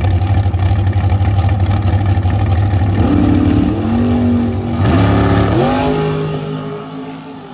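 Drag racing car's engine running loud, then accelerating hard, its pitch climbing in steps with a couple of gear changes, and fading as it pulls away down the track.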